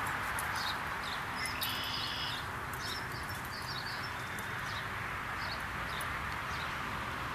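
Small birds chirping in short, repeated high calls, with one brief trill about two seconds in, over a steady background hiss.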